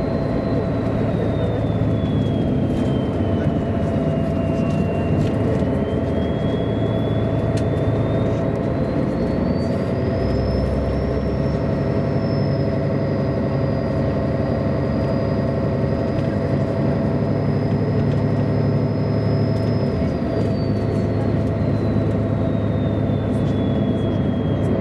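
Ride noise of a 1999 MAN A23 articulated city bus: its diesel engine hums steadily under a high drivetrain whine that rises as the bus speeds up, holds steady while it cruises, and falls away as it slows after about twenty seconds.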